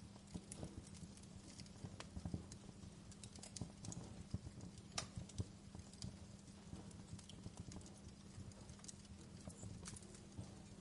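Wood fire burning in a fireplace, crackling with irregular pops and snaps; the sharpest pop comes about five seconds in.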